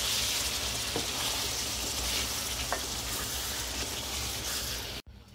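Taro root pieces sizzling in oil and spiced onion paste in a pan, stirred with a wooden spatula that knocks lightly against the pan twice. The sizzling cuts off abruptly near the end.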